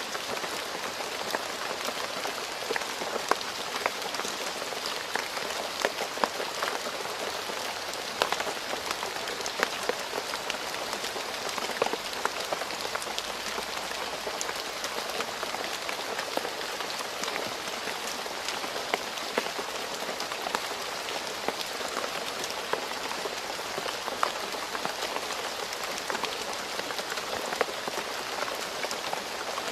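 Steady rain falling on a road surface: a dense even hiss with many sharp individual drop splashes scattered through it.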